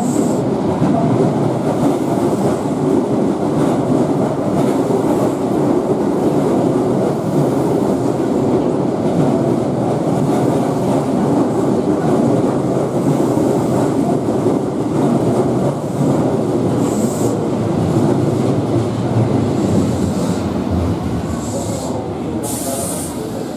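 Keihan 2400 series electric commuter train pulling into the platform, a steady rolling noise from its wheels on the rails. Short high squeals come a few times near the end as it brakes to a stop.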